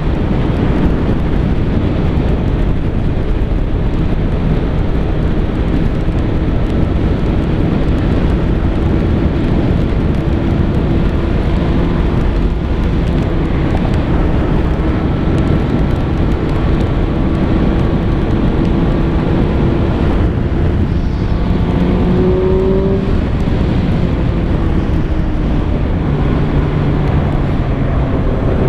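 Kawasaki ZX-6R 636's inline-four engine running steadily at road speed, under heavy wind rush on the microphone. The engine note rises briefly about three-quarters of the way through, then settles again.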